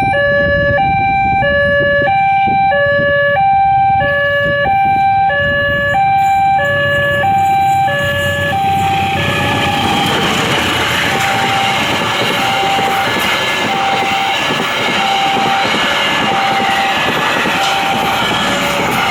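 Railway level-crossing warning alarm sounding two tones that alternate high and low in a steady repeating pattern. About nine seconds in, a train passing through the crossing rises over it with a loud, steady rush of wheel and rail noise, the alarm still sounding underneath.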